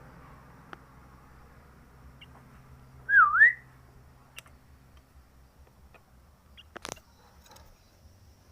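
A bird gives a single loud whistled note about three seconds in, swooping down and then up, lasting about half a second. A few faint clicks and one sharper tick follow later.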